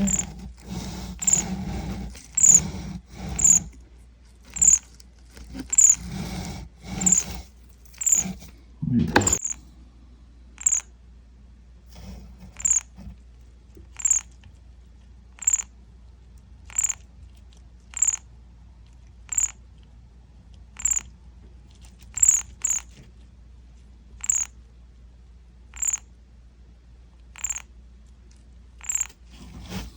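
Baby birds peeping: short, high-pitched chirps repeated about once a second.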